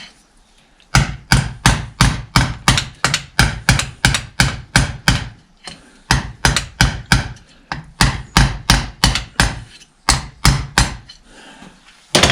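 Rapid hammer blows, about three a second in three runs with short pauses, tapping a part that is half fitted and slightly twisted further into place on the tractor.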